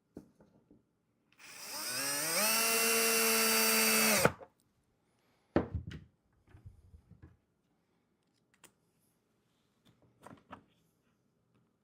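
Power drill spinning up and running for about three seconds while driving a screw to fix a latch into the wooden hive, its whine rising in pitch and then holding steady before stopping abruptly. A single knock follows, then faint handling clicks.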